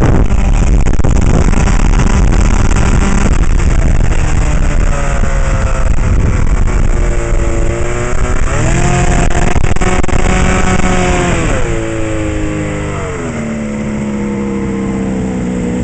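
Mercury 150 outboard motor running under way, with heavy wind and water noise at first. The engine pitch rises about eight seconds in, holds, then drops back in two steps as the throttle is eased off.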